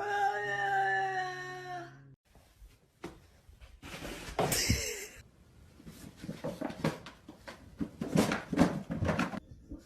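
A dog's drawn-out, steady-pitched vocal sound for about the first two seconds, followed by scattered knocks, clicks and short pet noises.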